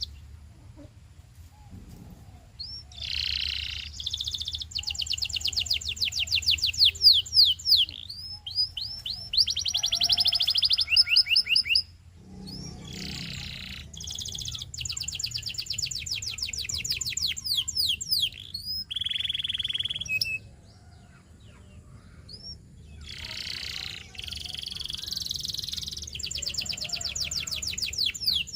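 Domestic canary singing: long trilled phrases of fast repeated sweeping notes, broken by short pauses, with a quieter gap at the start and another about two-thirds of the way through.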